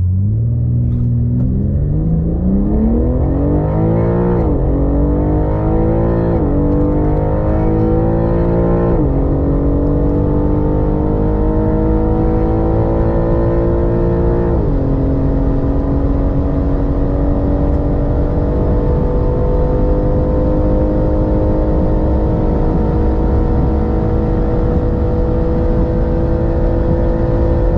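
510 hp BMW M3 G80's 3.0-litre twin-turbo inline-six accelerating hard from inside the cabin, revs climbing and dropping at four upshifts from second to sixth gear, each gear held longer than the last. After the last shift, about 15 seconds in, it pulls on in sixth with the revs rising only slowly.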